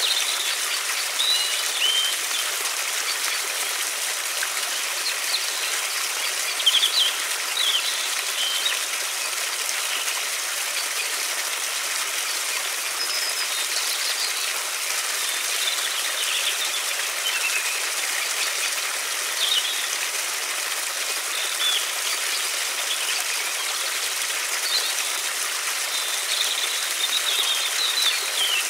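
River water flowing in a steady rush, with small birds chirping now and then above it.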